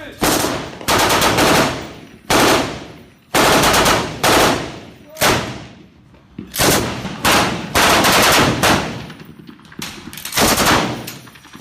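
Machine guns firing short bursts at a sustained rate, about ten bursts in a row, each a fast string of shots with a trailing echo.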